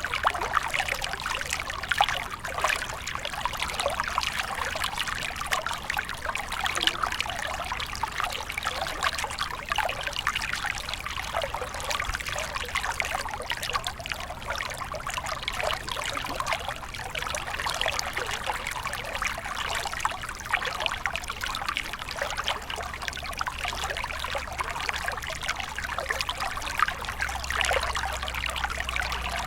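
Small stream flowing and trickling steadily, water splashing lightly over stones.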